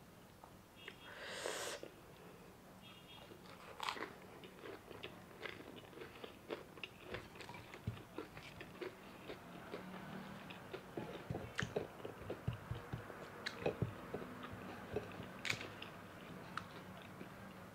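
Close-up biting and chewing of a fried chicken spring roll, a quick run of small crunchy clicks and smacks that grows busiest past the middle. A short hiss about a second and a half in.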